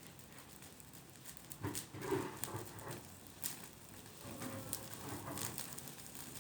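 Scattered crackles and pops as paper and kindling catch fire, with a couple of short pitched sounds mixed in around two seconds and four and a half seconds in.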